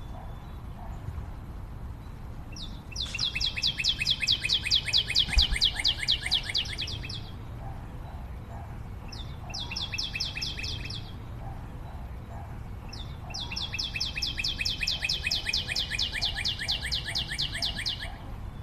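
A bird singing a fast trill of about eight even notes a second, in three bouts: a long one starting about three seconds in, a short one near the middle, and another long one in the second half.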